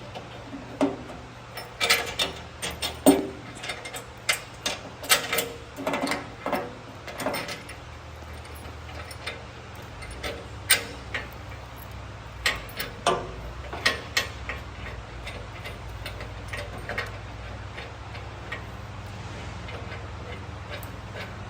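Irregular sharp metallic clicks and clinks of tools, bolts and a latch being worked loose and handled on a drum mower's frame. They are thickest in the first half and more scattered after, with a steady low hum underneath.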